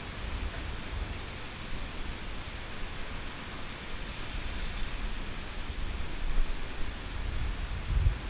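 Heavy rain falling: a steady, dense hiss of drops, with a brief low rumble swelling near the end.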